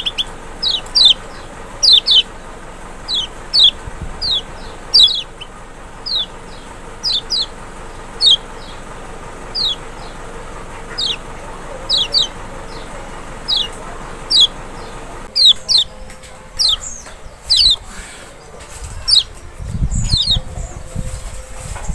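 Lemon-bellied white-eye (kecial) singing a long series of short, sharp, falling whistled notes, one every half second to a second. A low rustling noise comes in near the end.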